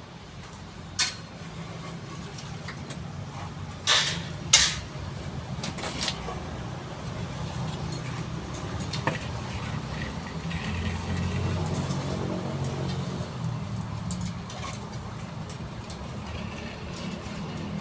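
A steady low engine rumble, with a few sharp knocks or clacks, two of them close together about four seconds in.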